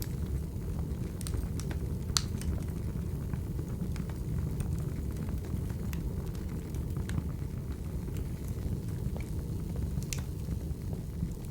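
Wood fire burning: a steady low rumble with scattered sharp crackling pops, the loudest about two seconds in and again near ten seconds in.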